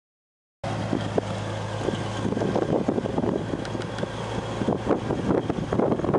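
Towmotor yard fork truck's LP-powered Chrysler engine running, cutting in suddenly about half a second in, with a steady low hum and irregular mechanical clatter over it.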